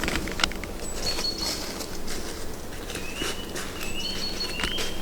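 Footsteps on the forest floor, with birds calling in short high whistled notes, several of them rising, from about three seconds in.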